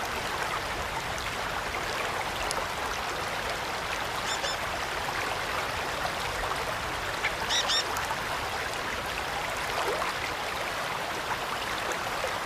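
Winter forest ambience: a steady rushing hiss with a few short, high bird calls, the clearest about four and seven and a half seconds in.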